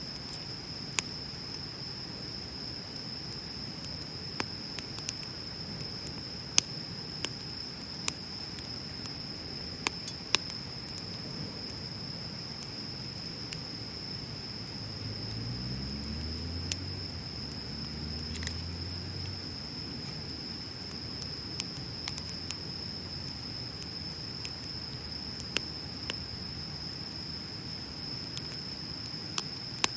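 Bonfire of burning wood crackling, with sharp pops scattered irregularly, about a dozen in all, over a steady high-pitched hum. A faint low rumble rises and fades about halfway through.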